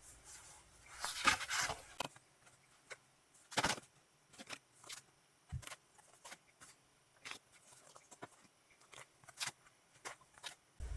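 Album packaging and its contents being handled: a brief rustle about a second in, then scattered light clicks and taps.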